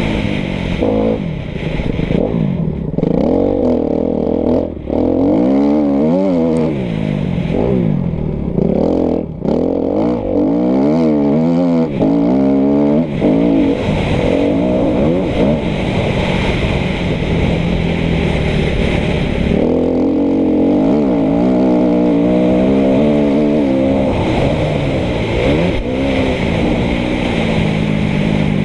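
Kawasaki KX250F's 250 cc four-stroke single-cylinder engine revving up and down again and again as the throttle is worked, with a few brief drops where the throttle is cut.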